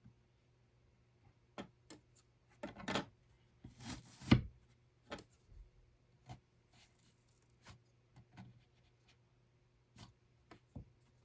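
Irregular close-up handling: short rubbing and scraping sounds and light clicks, with one louder knock about four seconds in.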